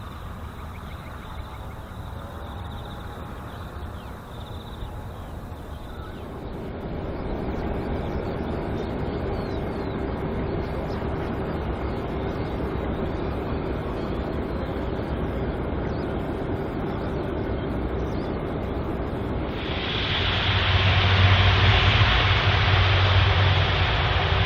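Jet engine noise from a Malaysia Airlines Airbus A380's four engines, rising in level about six seconds in and jumping sharply louder, with a heavy low hum, about twenty seconds in.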